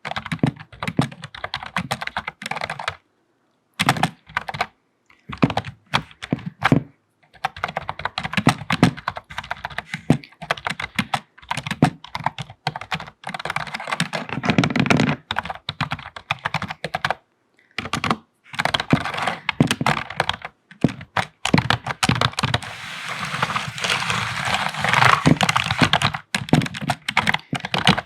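Typing on a computer keyboard: quick runs of key clicks broken by a few short pauses, thickest about 23 to 26 seconds in.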